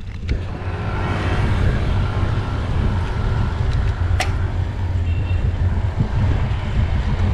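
Steady wind rumble on an action-camera microphone while cycling on a road, with a motor vehicle going by. A single sharp click comes about four seconds in.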